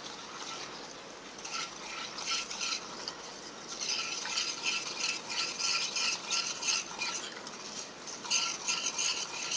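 A utensil stirring in a bowl with quick, rhythmic scrapes, about three strokes a second, mixing powdered sugar into warm milk to dissolve it.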